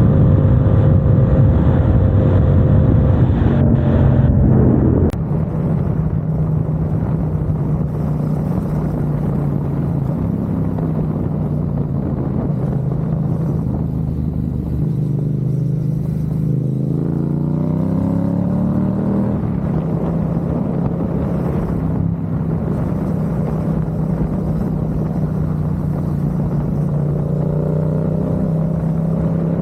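Motorcycle engine running under way over road and wind noise, with a clear rise in revs about halfway through as it accelerates. The sound changes abruptly about five seconds in.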